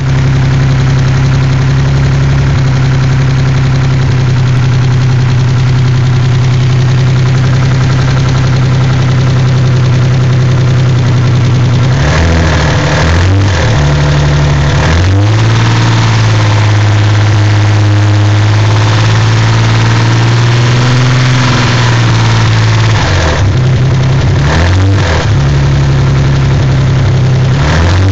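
Nissan 300ZX's VG30DETT twin-turbo V6 idling steadily, then revved and blipped several times from about halfway through. The owner suspects a bad lifter in the passenger-side bank.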